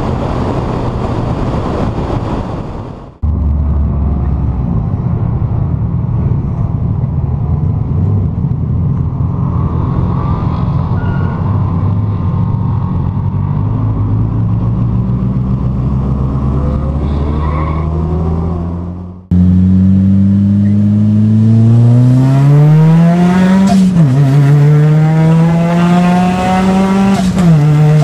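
1988 Ford Laser KE TX3's four-cylinder engine accelerating hard, its pitch climbing steadily through each gear and dropping sharply at two gear changes near the end. The sound cuts abruptly twice along the way.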